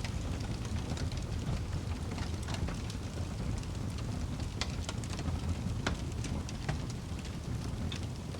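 Wood fire burning in a fireplace: a steady low rumble of flames with irregular sharp crackles and pops from the burning wood, a few louder snaps in the second half.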